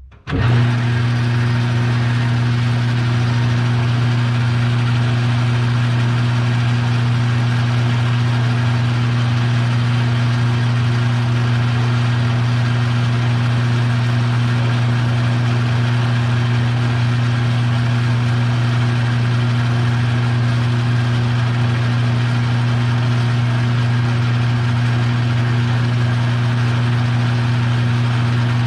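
A shop machine's electric motor switches on just after the start and runs at a steady speed, with a strong low hum under a whirring, even noise.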